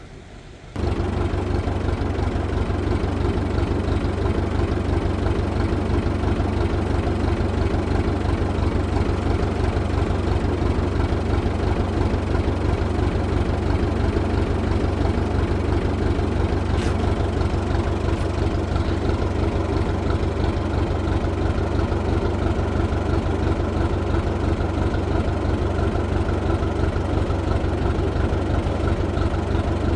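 An engine running steadily at idle with a fast, even chugging pulse. It comes in abruptly about a second in.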